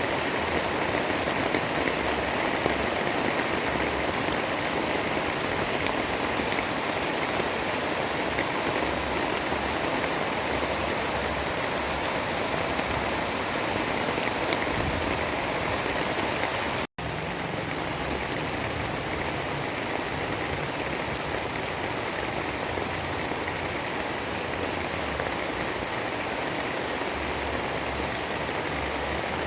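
Steady, dense rain-like noise of a white-noise sleep recording. It cuts out for an instant about seventeen seconds in, then carries on slightly quieter.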